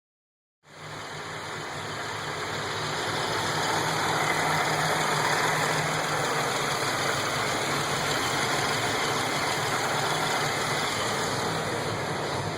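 Buick Regal's supercharged 3800 V6, fitted with an aftermarket XP camshaft, idling steadily; the sound comes in about half a second in.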